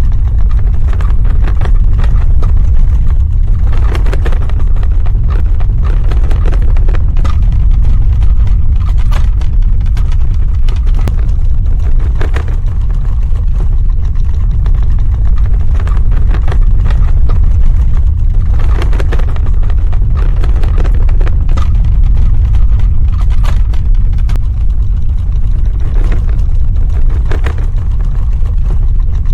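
Earthquake sound effect: a loud, continuous deep rumble with scattered cracks and rattles every few seconds.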